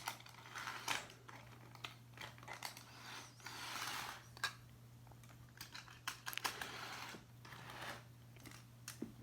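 Light clicks and a short rustle from handling a toy train engine and its packaging, over a steady low hum.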